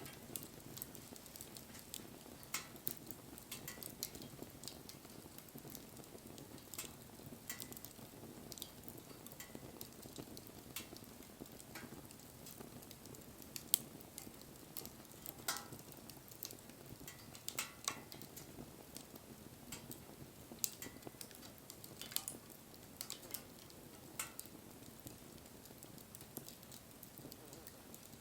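Wood bonfire burning: a soft steady hiss with irregular crackles and pops, a few sharper snaps among them.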